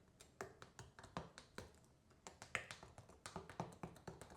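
A spoon clicking and tapping against the inside of a glass while stirring powdered chocolate drink mix into water, a quick, irregular run of light clicks, several a second. The powder is thick and hard to stir in.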